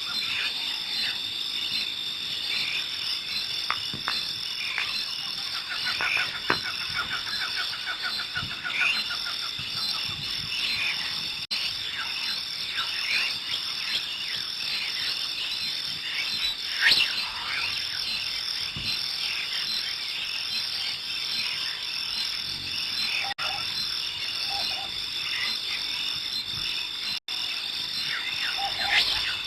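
Wildlife chorus: a steady high-pitched drone of calling creatures, with many short bird chirps and calls over it. A rapid trill runs from about six to nine seconds in, and one louder call comes near the middle.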